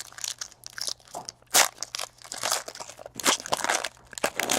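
Trading cards and a foil pack wrapper being handled, making a run of irregular crinkles and rustles.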